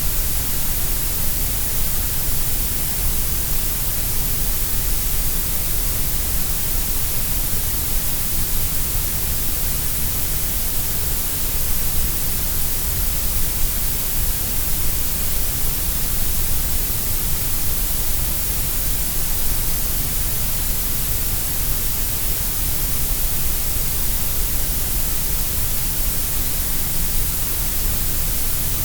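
Grey noise: a steady, unbroken synthetic hiss, strongest in the deep lows and the highs with the middle range held lower.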